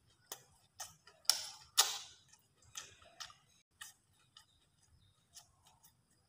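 Close-up mouth sounds of a person chewing food: irregular wet clicks and lip smacks, two louder ones a little under two seconds in, then sparser and fainter.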